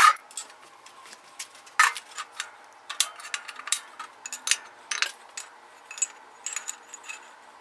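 Steel fixtures and frame parts clinking and clanking as they are set down and fitted on a steel welding table: irregular sharp metallic knocks, some with a brief high ring.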